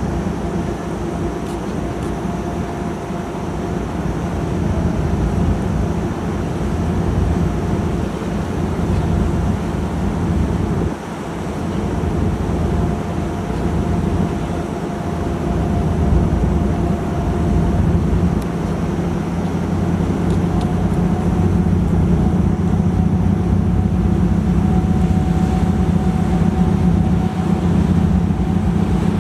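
A ferry's engines running under way: a steady low drone with a faint higher whine above it.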